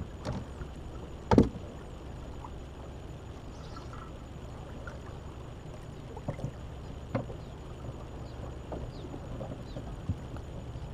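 Wind buffeting the microphone in a steady low rumble, with a few knocks and clunks of gear being handled in the boat, the loudest about a second and a half in.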